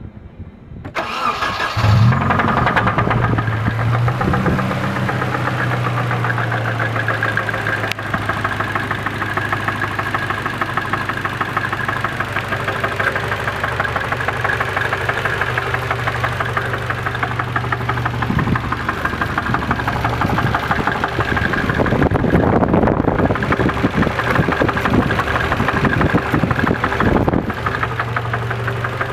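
Nissan KA24DE 2.4-litre four-cylinder engine starting about a second in and settling into a steady idle with a knock running through it, which the owner takes for rod knock from a bad bearing. A louder, rougher stretch comes near the end.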